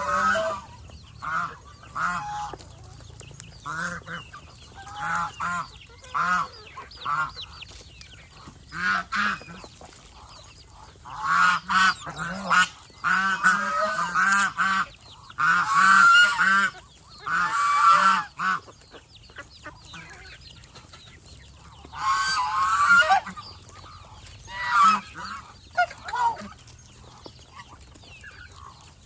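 Domestic geese honking repeatedly, several birds calling over one another, with louder clusters of overlapping honks in the middle and again later on.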